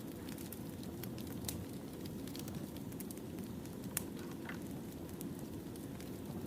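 Wood fire burning: a steady low rumble with scattered sharp crackles and pops, the loudest about four seconds in.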